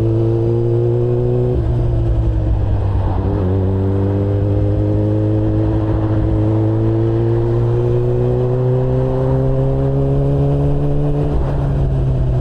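Yamaha R6 inline-four sportbike engine running under way, its pitch climbing slowly and dropping suddenly three times, about one and a half, three and eleven seconds in.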